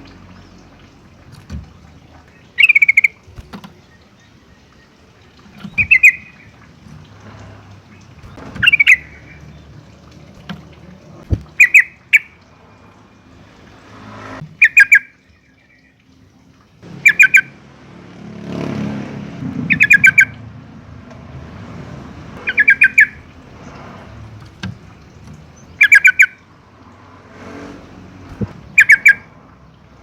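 Yellow-vented bulbul (Pycnonotus goiavier) repeating a short, loud burst of rapid bubbly notes about every three seconds.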